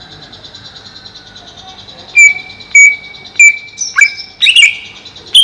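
Greater green leafbird calling loudly: four sharp, evenly spaced notes starting about two seconds in, then a quicker run of gliding whistles near the end. A steady, high, fast-pulsing buzz runs underneath.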